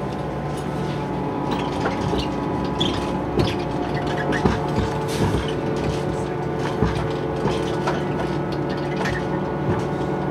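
A diesel railcar running along the track: a steady engine and running drone with many short clicks, knocks and rattles from the carriage.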